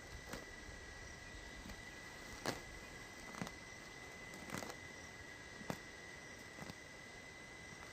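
Faint, sharp knocks spaced irregularly about a second apart, over a steady high-pitched tone and a faint hiss.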